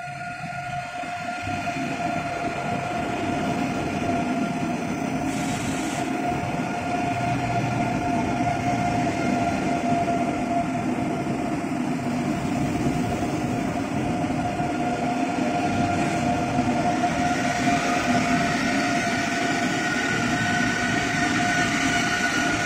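Deutsche Bahn ICE 3 high-speed train pulling slowly into a station platform. Its running noise builds over the first few seconds and then holds steady, with a steady whine running through it.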